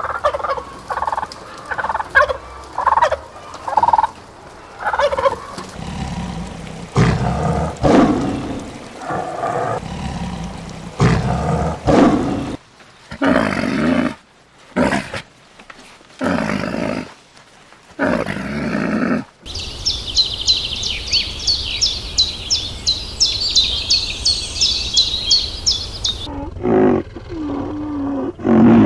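A string of animal calls from separate clips. It opens with domestic turkeys calling and gobbling in short bursts, followed by other short animal calls. Later comes about seven seconds of rapid high chirping, some four or five chirps a second, that starts and stops abruptly.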